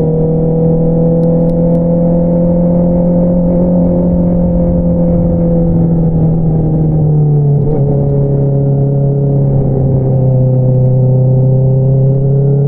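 2022 Honda CBR650R's inline-four engine running through an Akrapovič single-outlet exhaust at steady revs. About seven and a half seconds in the engine note drops to a lower pitch, then slowly climbs again.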